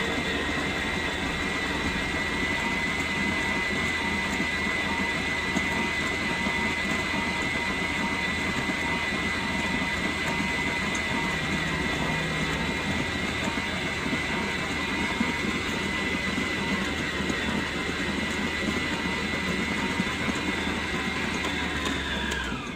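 Electric mixer motor running steadily at a raised speed while it kneads bread dough, with a constant high whine over a low hum. Near the end the whine drops in pitch and dies away as the mixer is switched off.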